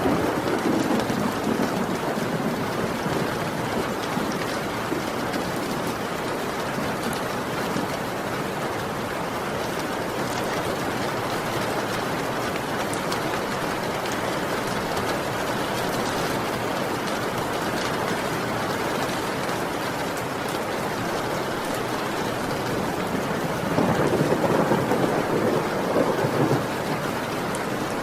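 Heavy rain falling steadily, with rumbles of thunder, once at the start and again near the end.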